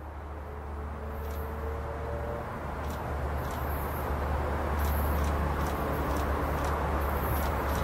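An electric passenger train approaching along the line: a steady low rumble and rising rail noise that grow louder as it nears.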